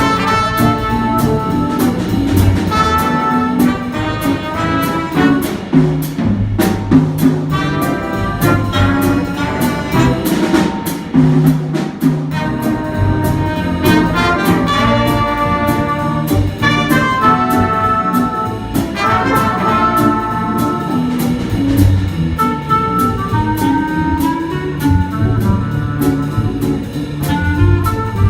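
Small jazz combo playing, with brass horns carrying the melody over a steady beat of regularly spaced strokes that sound like cymbals.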